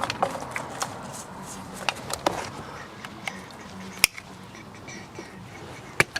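Scattered sharp clicks and light knocks of hand work with tools: wire snips and metal parts being handled and cut at cable ties. Two sharper clicks stand out, about four seconds in and near the end.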